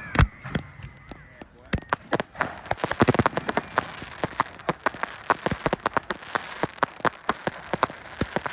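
Fireworks going off: a loud bang just after the start, then a dense, irregular crackle of sharp pops over a hiss that thickens from about two seconds in, typical of crackling-star effects.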